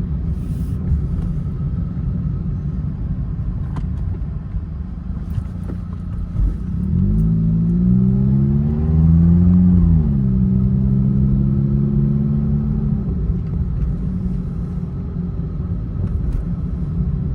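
Car being driven: steady low road rumble. About seven seconds in, an engine note rises in pitch, drops near ten seconds, and holds steady until about thirteen seconds.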